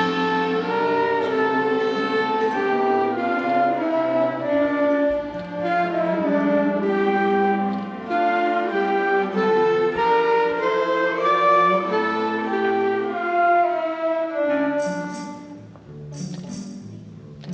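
Orchestral music led by bowed strings, playing a moving melody of held notes. About fifteen seconds in, it drops quieter and short, bright percussive strokes come in.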